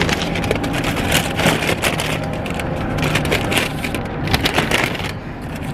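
Crackling, rustling handling noise close to the microphone inside a car, as of paper food bags and wrappers being handled, over the car's low steady hum.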